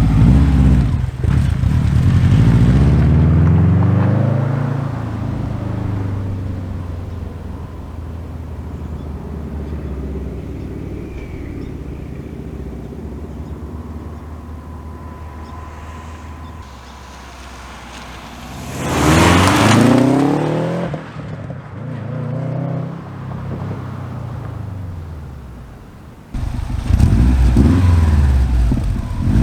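Subaru Legacy GT Spec B's turbocharged flat-four accelerating hard through a Magnaflow cat-back exhaust, in separate clips. Revs rise at the start, then fade as the car pulls away. A second loud burst of acceleration comes about two-thirds of the way in, and a third near the end.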